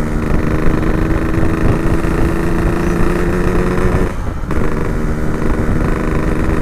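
Yamaha RX-King 135cc two-stroke single with an Abbox C20 aftermarket exhaust, ridden at steady throttle. The engine note drops briefly about four seconds in, then picks up again.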